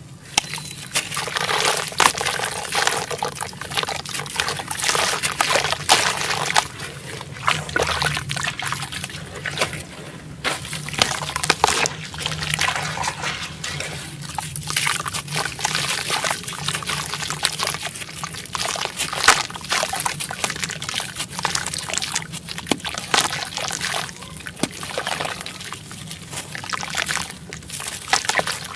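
Dried sand-cement crumbling in water: steady fizzing, crackling and trickling, thick with small clicks, as water soaks into the pieces and they break apart.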